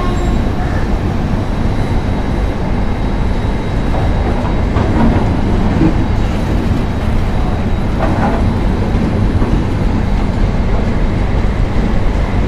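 Double-decker express train running on the rails, a steady rumble of wheels and coach heard from inside the carriage.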